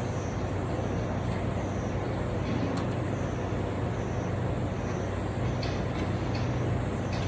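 Pool heat pump running: a steady low compressor hum under the even rush of its fan.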